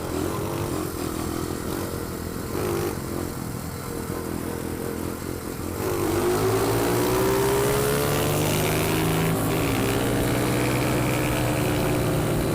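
Pit bike's small single-cylinder engine running, uneven at low speed at first, then revving up about six seconds in with a rising pitch and holding at a higher, louder speed as the bike accelerates.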